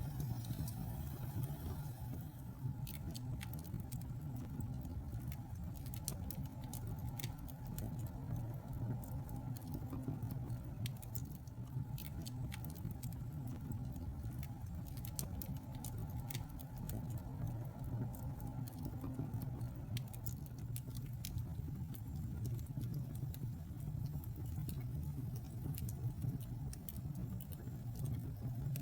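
Wood fire burning in a fireplace: irregular sharp crackles and pops, starting about two seconds in, over a steady low rumble of the flames.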